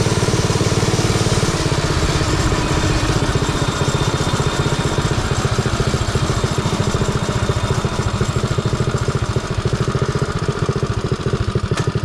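Predator 212cc single-cylinder engine on a mini bike running steadily, with an even rapid firing beat.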